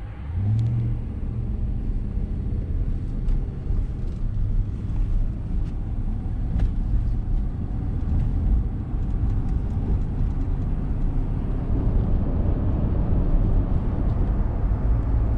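Truck driving on the road, heard from inside the cab: a steady low engine hum and road rumble that comes up sharply just after the start and keeps growing slowly louder as it gathers speed, with a few faint clicks and rattles.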